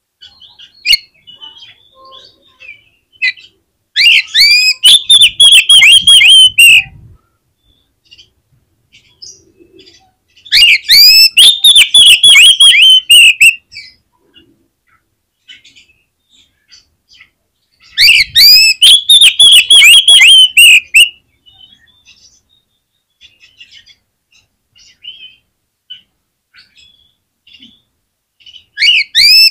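Oriental magpie-robin (kacer) singing: loud bursts of about three seconds of rapid, repeated sweeping whistled notes, three times with faint chirps between, and a fourth burst starting at the very end.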